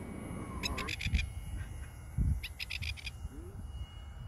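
A bird calling in quick runs of about five short, high chirping notes, each run repeated about every two seconds, over a low wind rumble on the microphone.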